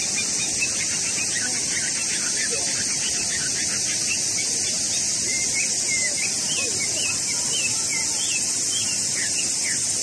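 Bird calling from a tree: a rapid string of short high chirps and quick up-and-down notes that grows busier from about a second in, over a steady high hiss.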